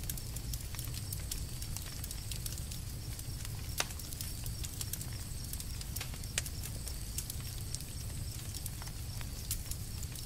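Campfire crackling: frequent small snaps and pops over a low steady rumble, with two louder pops about four and six seconds in.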